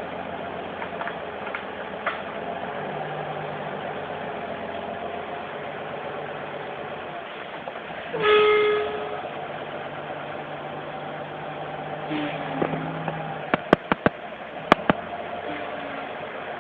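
A vehicle horn sounds one short blast about eight seconds in, over a steady engine and traffic hum. A few sharp clicks come near the end.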